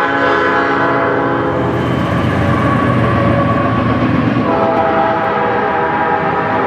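Train horn sounding a chord of several steady notes, fading about a second and a half in, over the rumble of a passing train. The horn sounds again from about four and a half seconds in.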